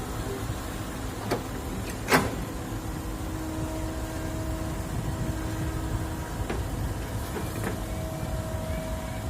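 Excavator running while loading topsoil into a dump truck: a steady engine rumble with a few sharp knocks, the loudest about two seconds in.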